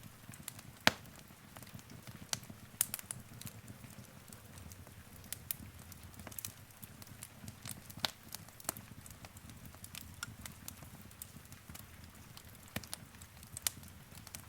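Wood fire crackling in a fireplace: sharp, irregular pops and snaps over a low, steady rumble of flames, with one loud pop about a second in.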